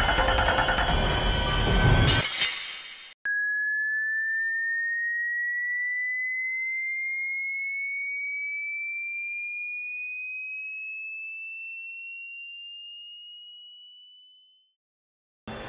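A dense, rumbling drone cuts off about two seconds in. Then a single pure electronic tone begins and slowly rises in pitch for about eleven seconds, fading away to nothing.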